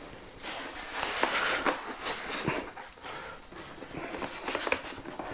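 Handling noise of a foam RC jet model and its packaging: rustling with scattered light knocks and faint squeaks as the model is turned over and set down.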